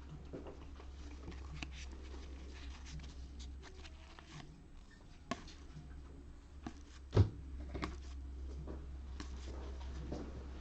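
Trading cards, 2021 Panini Score football, being flipped and slid through the hands, making soft rustles and small clicks, with one sharp thump about seven seconds in, over a low steady hum.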